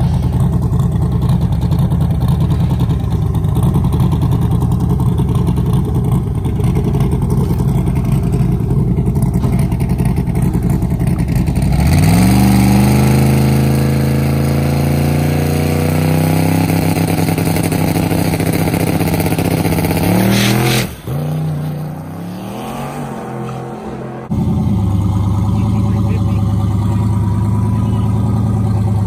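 Drag-race car engine idling with a loud, steady rumble. About twelve seconds in it is revved up and held at high revs for several seconds, then drops away suddenly. A steady low idle rumble returns near the end.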